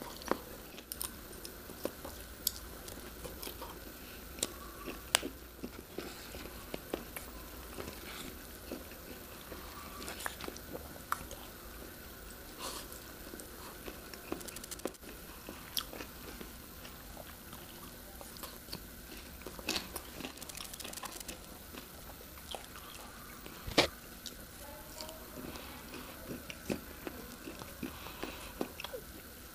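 Close-miked chewing and mouth sounds of a person eating cup instant noodles and sausage with a fork, with scattered sharp clicks and ticks throughout. The loudest click comes about 24 seconds in.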